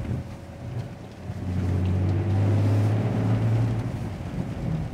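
Ineos Grenadier's straight-six engine heard from inside the cabin while driving: its low, steady drone grows louder about a second in, holds for a couple of seconds under throttle, then eases back.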